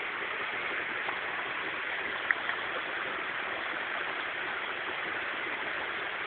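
Steady rush of flowing stream water, with a sharp click a little over two seconds in and a fainter one about a second in.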